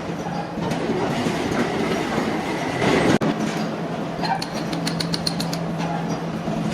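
Machinery running steadily with a low hum and a grinding rumble, and a quick run of light metallic ticks about two-thirds of the way through.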